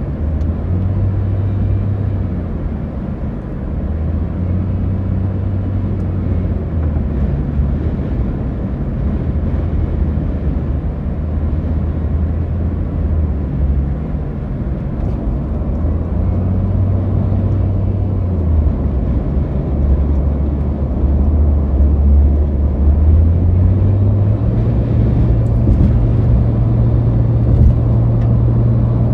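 Car cabin noise at highway speed: a steady road-and-wind rush under a low engine drone. The drone shifts pitch several times and settles higher for the last few seconds.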